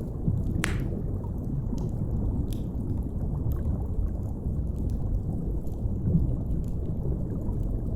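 Deep, steady underwater rumble with sparse crackles and pops of a wood fire over it, one louder pop just under a second in.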